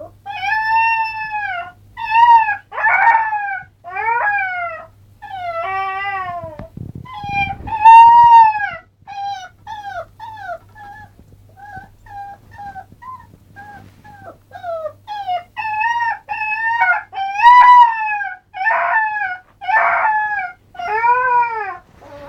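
Alaskan malamute puppy howling: a long run of short howls, each rising then falling in pitch, with a string of shorter, higher whines and yips in the middle before the fuller howls return.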